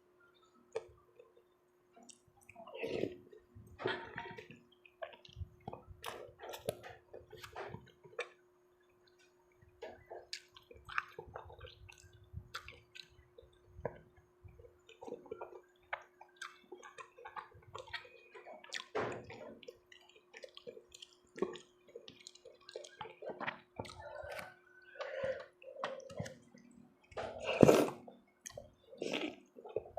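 Close-miked eating sounds: irregular wet chewing and slurping of soup, with short clicks of a spoon or utensil. A faint steady hum runs underneath.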